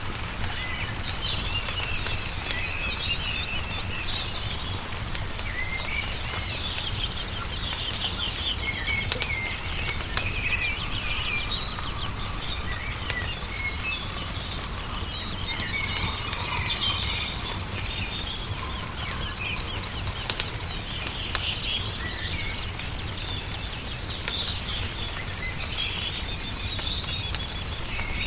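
Songbirds chirping and singing throughout, over a crackling fire with scattered sharp pops and a steady low rumble underneath.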